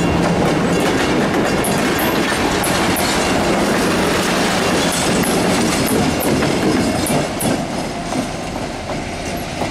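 Passenger coaches of an excursion train rolling past close by, steel wheels clicking steadily over the rail joints. Near the end the EMD GP7 diesel locomotive comes by, adding a steady low engine drone.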